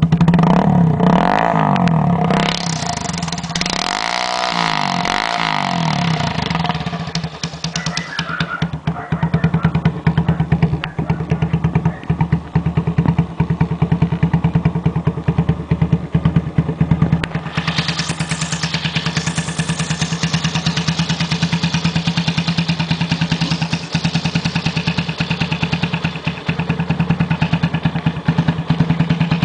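Bashan 150 engine running through a custom muffler: revved up and down a few times in the first several seconds, then settling into a steady, evenly pulsing idle.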